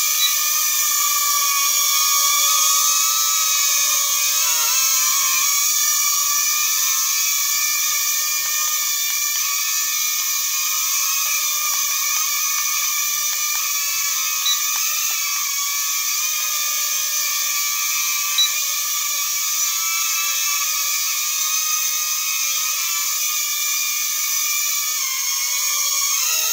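Small electric motor and propeller of a toy airplane whining steadily, the pitch wavering slightly now and then.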